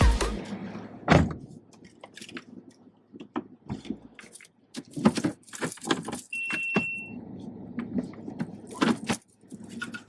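Handling sounds around a car: scattered clicks, knocks and light rattles like keys, with a heavier knock about a second in and a short high electronic beep a little past halfway.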